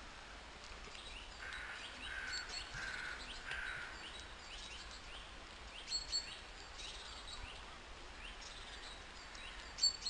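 Birds calling outdoors: many short chirps throughout, and a run of four harsh calls in a row, about half a second apart, between about one and a half and four seconds in. Two sharp clicks come about six seconds in, and another just before the end.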